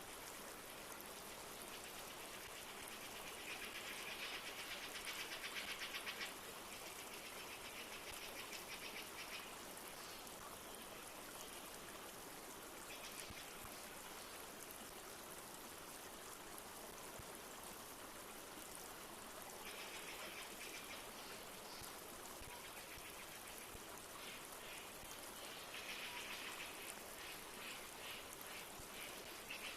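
Steady hiss of a flowing river and light rain. Several times an animal gives a rapid pulsing trill lasting a second or few, the loudest about four seconds in.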